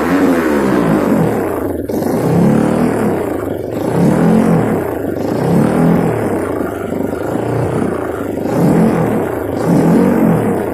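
Single-cylinder Kawasaki KLX trail bike engine through an Over Racing aftermarket exhaust, revved up and down over and over, about one rev every second and a half.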